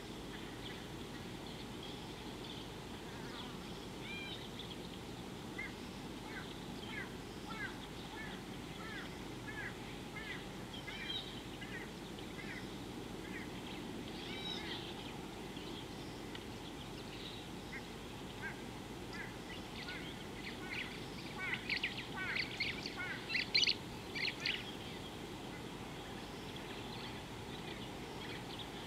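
Wild birds calling outdoors: many short chirps throughout, with a louder run of rapid calls about three quarters of the way in, over a steady low background hiss.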